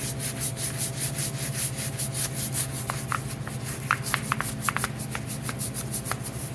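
Rapid, even back-and-forth scrubbing strokes on caked grease softened with parts cleaner, about five or six strokes a second, over a steady low hum.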